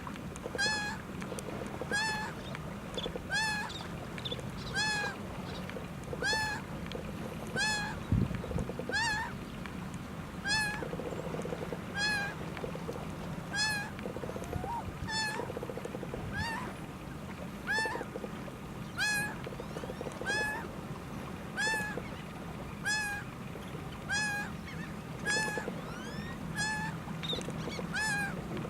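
Laughing gull calling over and over, a nasal mewing note that rises and falls in pitch, about one call every second and a quarter. A single low thump about eight seconds in.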